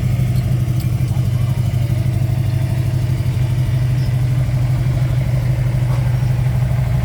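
A classic car's engine idling steadily, loud and low-pitched, with an even pulsing beat.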